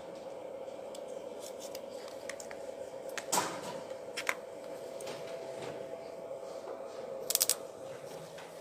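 Small DC water pump motor running with a steady hum, with a sharp click about three seconds in, another a second later, and a quick rattle of clicks near the end.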